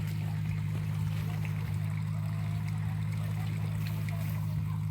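Steady low drone of a running vehicle, even in level throughout, with a few faint clicks over it.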